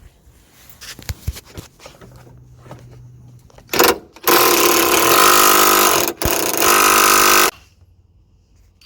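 Power impact wrench undoing the 17 mm nut at the lower end of a worn anti-roll bar drop link: a short blip about four seconds in, then two loud runs of about two seconds and one second with a brief break between, cutting off abruptly. A few faint clicks come before it.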